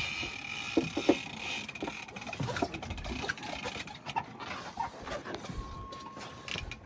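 Scattered knocks and clicks of fishing gear being handled on a boat's deck, over a faint low rumble.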